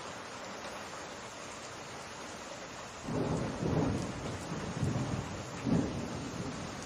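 Steady summer rain falling. About three seconds in, a low rumble of thunder rolls in, swelling in several waves before easing off near the end.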